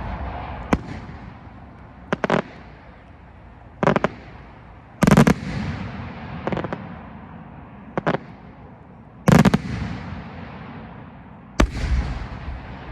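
Aerial firework shell breaks and report bursts from a 6-inch multi-break shell: about eight sharp, loud bangs a second or two apart, each followed by a long echoing rumble.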